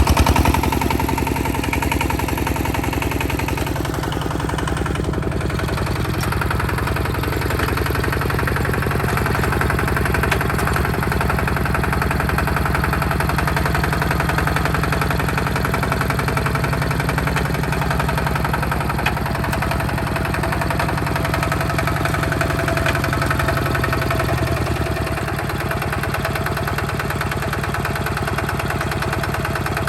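Hinota HG Gold 155 DI tractor's diesel engine running steadily while plowing a muddy field, with a fast, even chugging beat. It drops a little in level and in its low end about three-quarters of the way through.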